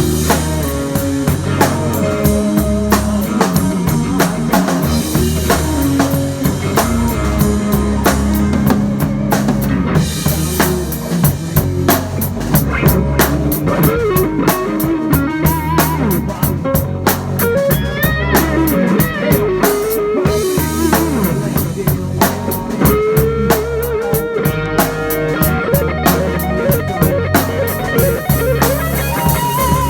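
Band playing an instrumental stretch of a song: a drum kit keeps a steady beat with bass drum and rimshots under a bass line, and an electric guitar plays a melodic lead with bent notes.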